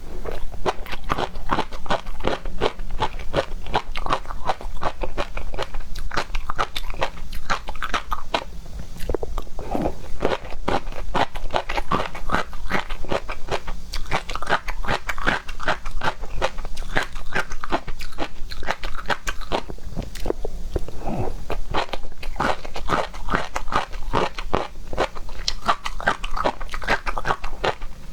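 Close-miked chewing and biting of seafood: continuous crunching and wet mouth clicks, fast and irregular, with short pauses between mouthfuls.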